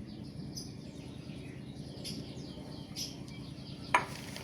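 Faint bird chirps over a steady low background hum, with one sharp click about four seconds in.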